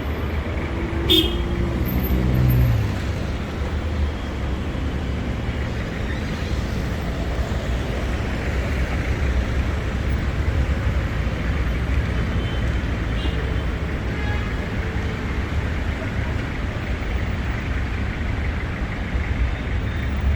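City street traffic noise: a steady wash of passing vehicles, with one vehicle's engine passing close between about one and three seconds in and a sharp click about a second in.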